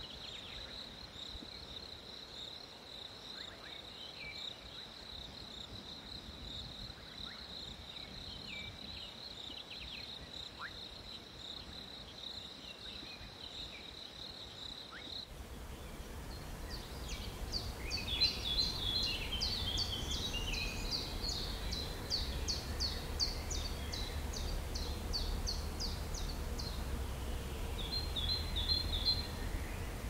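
Rainforest ambience: a steady, high insect buzz with a few faint chirps. About halfway the buzz cuts off, and birds chirp in quick runs of repeated notes over a low rumble.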